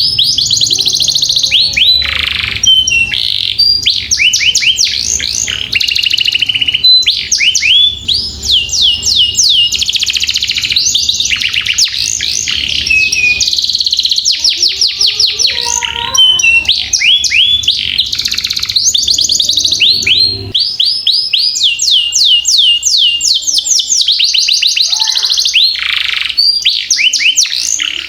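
Domestic canary singing a long continuous song of fast rolling trills: rapidly repeated high notes in phrase after phrase with only brief pauses.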